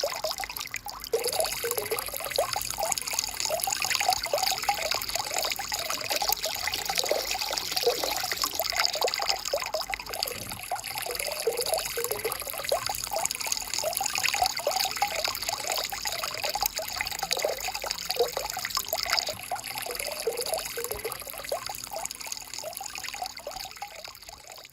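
Small stream of water flowing, with many small quick bubbling sounds, fading out near the end.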